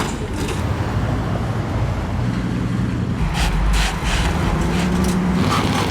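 Car engine and exhaust running with a low rumble, its pitch shifting a few times.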